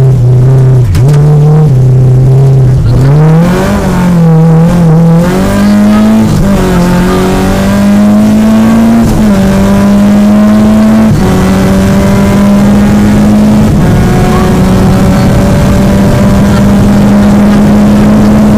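Peugeot 205 GTI rally car's four-cylinder engine, heard loud from inside the cabin. The revs waver for the first few seconds. Then the engine pulls up through the gears, with upshifts about six, nine and eleven seconds in, and holds high revs near the end.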